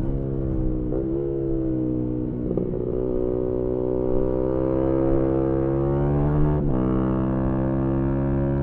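Single-cylinder engine of a 2018 Yamaha MT-125 with an aftermarket GPR exhaust, heard onboard while riding. The note climbs slowly as the bike accelerates, broken briefly by gear shifts about a second in and again near seven seconds.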